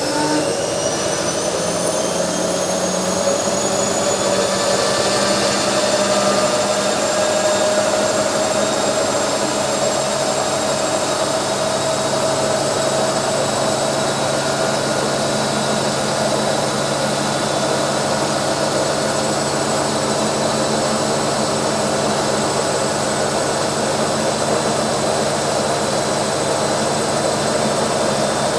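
Washing machine on its spin cycle: the drum finishes speeding up over the first few seconds, then spins steadily at full speed with a loud rushing noise and a high motor whine.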